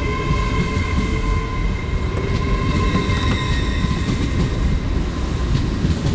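LNER Azuma (Hitachi intercity train) at the platform: a steady low rumble with several even, high whining tones over it.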